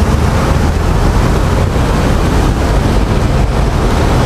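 Honda Click scooter riding through floodwater: a steady rush of water spray from the tyres over the engine's low hum, with wind noise on the microphone.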